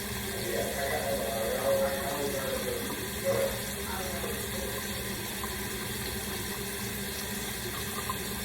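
Tap water running steadily into a sink, with a faint voice in the background during the first few seconds.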